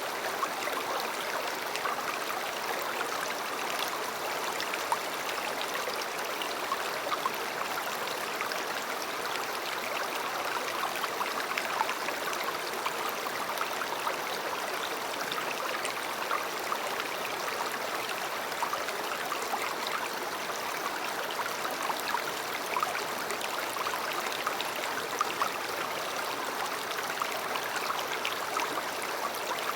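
A river flowing: a steady rush of water with many small splashes and trickles.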